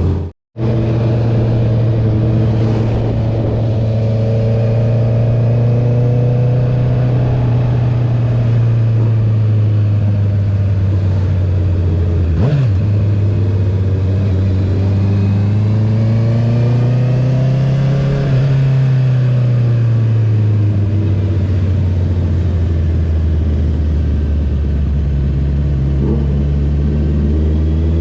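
Honda CB650R inline-four running through an Akrapovic titanium full-system exhaust with the dB killer removed, cruising with a steady note that sinks and swells gently with the throttle, with one longer rise and fall about two-thirds through. The sound cuts out completely for a split second just after the start, and there is a short sharp tick around halfway.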